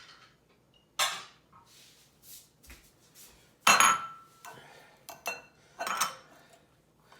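Kitchenware being handled: a handful of separate knocks and clinks of a bowl, strainer and utensils being picked up and set down. The loudest, about three and a half seconds in, rings briefly.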